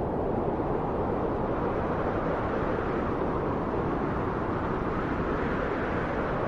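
Steady, even rushing of wind, strongest in the low and middle range, with no gusts or breaks.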